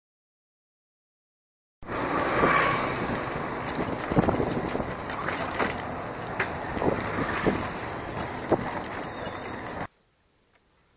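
Bicycle ridden over a rough dirt trail: a steady rushing noise with scattered knocks and rattles. It starts about two seconds in and cuts off abruptly near the end.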